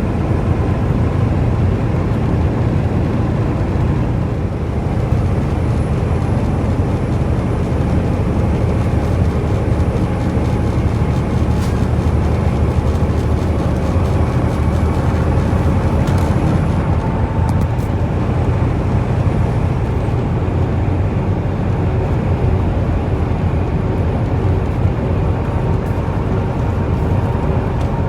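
Semi truck driving at a steady speed: a continuous, even engine drone and road noise.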